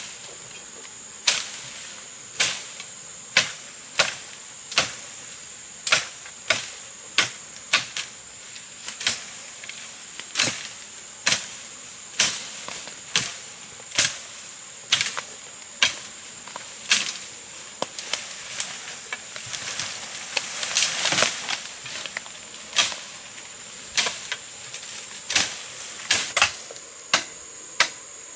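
Repeated sharp knocks, roughly one every half second to a second, over a steady high-pitched whine, with a brief louder noisy stretch about twenty seconds in.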